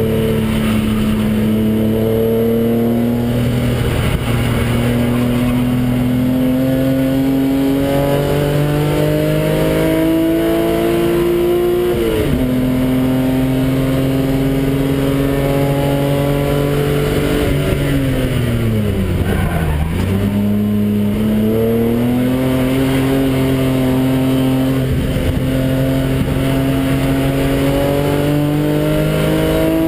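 Car engine heard from inside the cabin at full throttle on a race track, its pitch climbing steadily through long pulls. It shifts gear about twelve seconds in, the revs fall steeply and climb again around twenty seconds in, and it shifts again near the end.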